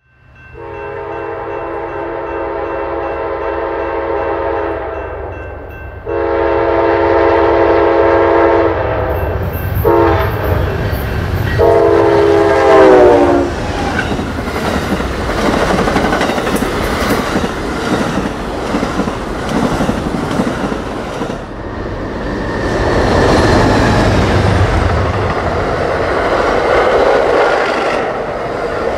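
An Amtrak train's multi-chime air horn sounds long, long, short, long, the usual grade-crossing signal, and the last blast drops in pitch as it goes by. Then the passenger train of Superliner cars rolls past with a heavy rumble and wheels clicking over the rail joints.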